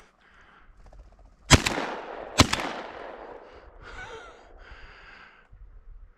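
Two gunshots about a second apart, each sharp crack trailing off in a long echo.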